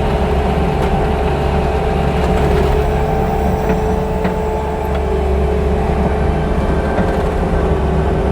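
Bobcat T630 compact track loader's diesel engine running steadily while it grades and cleans up a gravel pad, with a steady whine over the engine.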